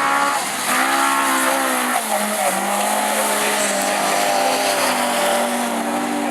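Several autograss race cars' engines running hard, their pitch rising and falling as they accelerate and lift around the track.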